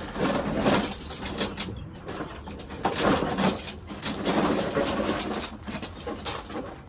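Scraping, rattling and knocking as a push lawn mower is dragged and shuffled through a cramped space, coming in uneven swells with small knocks.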